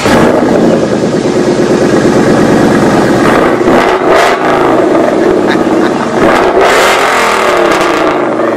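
Loud car engine revving, its pitch rising and falling a few times.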